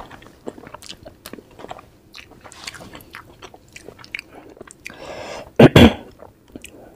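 Close-miked chewing of soft steamed veg momos, with many small wet mouth clicks. About five and a half seconds in there is a loud double thump.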